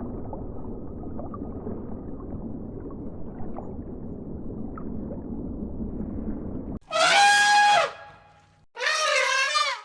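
Low rumbling background noise, then two loud animal calls near the end, the second wavering in pitch.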